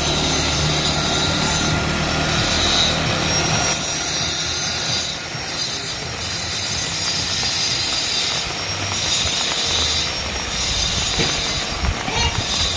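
Heavy rain falling with wind, a loud rushing noise that swells and eases every second or so. A low hum is under it at the start and again near the end.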